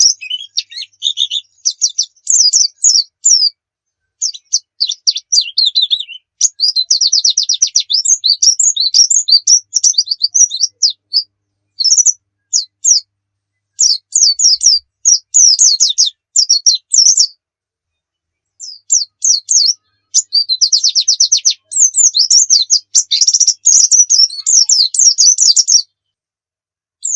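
A white-eye (pleci) singing in rapid, high-pitched twittering phrases with fast trills, broken by short pauses.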